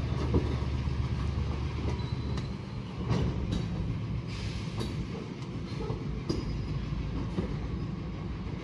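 Diesel switching locomotive moving slowly with its freight cars: a low engine rumble, easing off after about two and a half seconds, with several sharp clanks and wheel clicks over the rails.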